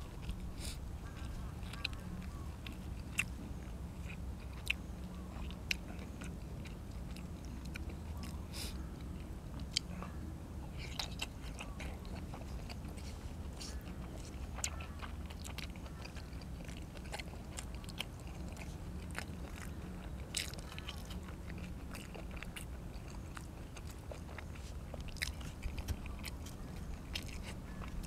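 A person chewing and biting through a meal of stewed pork ribs and raw vegetables, with irregular sharp clicks from mouth and teeth. A steady low hum runs underneath.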